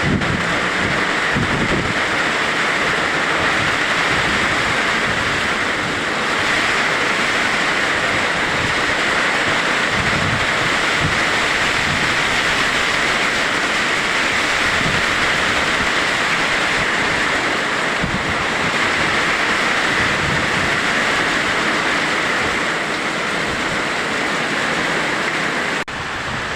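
Heavy rain pouring down in a summer thunderstorm, a loud steady hiss, with occasional low buffets of wind on the microphone.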